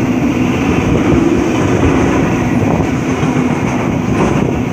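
Container wagons of a freight train rolling past close by: a steady, loud rumble of steel wheels on the rails, with a constant low hum underneath.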